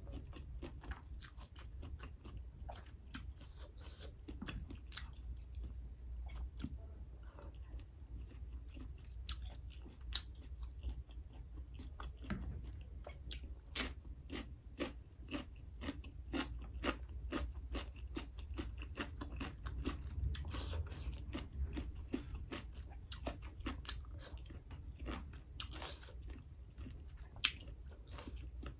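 Close-up chewing of a person eating rice and meat curry by hand: many short clicks of chewing and biting throughout, over a steady low hum.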